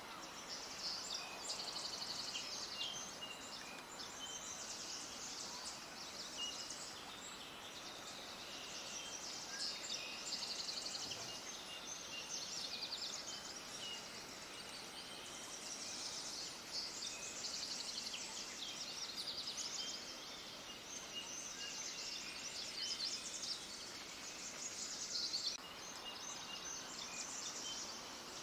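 Many small birds chirping and trilling at once, a dense, high-pitched chorus of rapid twittering that carries on without a break.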